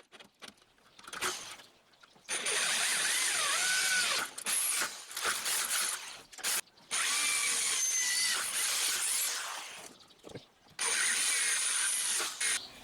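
Electric drill boring holes through a steel door panel in four runs of a few seconds each, with short pauses between them and a wavering squeal from the bit in the steel. The drill's chuck is wearing out.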